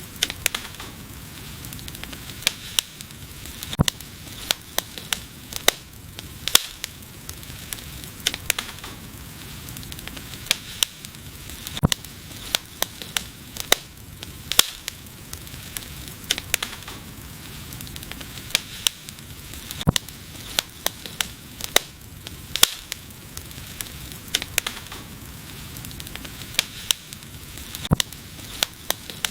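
Wood fire burning: a steady hiss with frequent sharp, irregular crackles and pops of burning logs.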